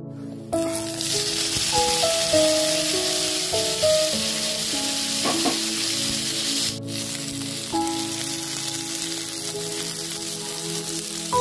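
Sliced onions, garlic and green chillies sizzling as they fry in hot oil in a pan; the sizzle starts abruptly about half a second in. Background music plays over it.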